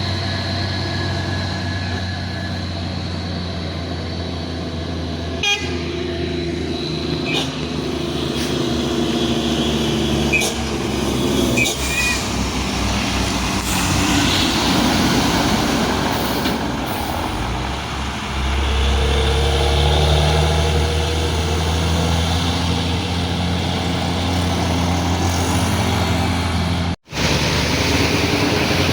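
Heavy truck diesel engines running in passing road traffic, with vehicle horns tooting several times.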